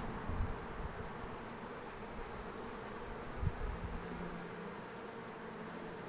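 A swarm of honey bees buzzing steadily in a dense hum, as the swarm crowds into a hive box. Two brief low thumps sound about half a second in and again around three and a half seconds in.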